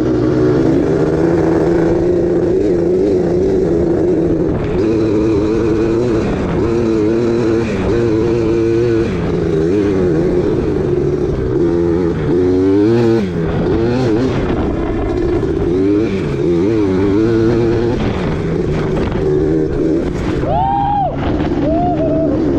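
Dirt bike engine running while riding. Its note wavers steadily and dips and climbs a few times as the throttle comes off and back on, with a quick rise and fall in pitch near the end.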